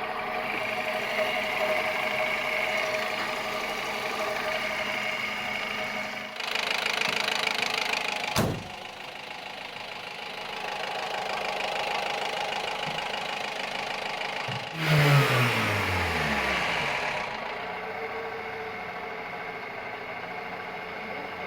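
Toyota RAV4 engine idling with a rattle. About fifteen seconds in it is briefly revved and the revs fall back, and the rattle then dies down. The rattle is put down to a clutch (муфта) that sticks until a little throttle frees it, along with a noisy alternator.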